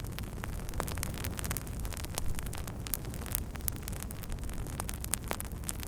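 Campfire crackling, irregular sharp pops and snaps scattered over a steady low rumble.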